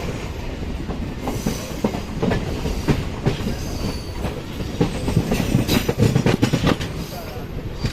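MEMU electric train running, heard from inside a coach: a steady rumble of wheels on track with many sharp clicks, knocks and rattles.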